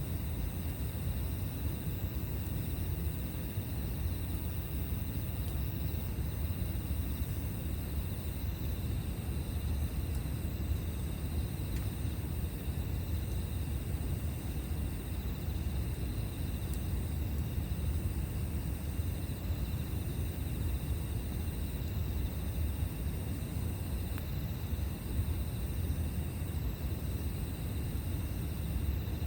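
Campfire burning steadily: a continuous low rumble with no distinct crackles. Above it runs a thin, steady high-pitched tone that breaks briefly about every two seconds.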